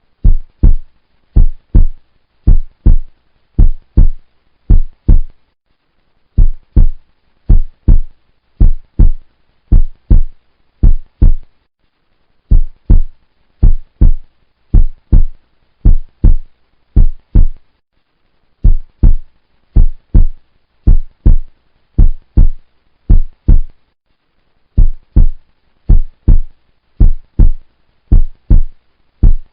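Deep, heartbeat-like double thumps, about one pair a second, in runs of five pairs with a short pause between runs, as part of an edited soundtrack.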